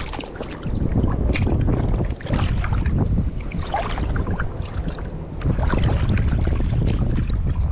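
Wind buffeting the microphone in a steady low rumble, with water sloshing and splashing irregularly around a person wading through shallow water.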